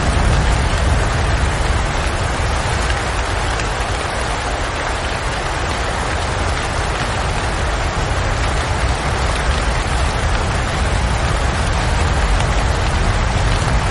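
Steady heavy rain falling, with a deep low rumble underneath.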